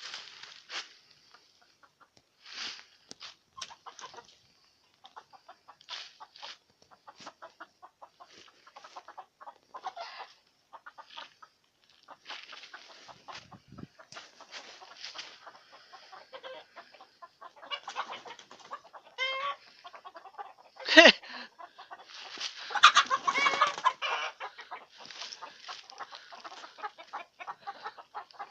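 Chickens clucking on and off in short calls, with a sharp loud knock about two-thirds of the way in followed by a louder flurry of sound lasting about two seconds.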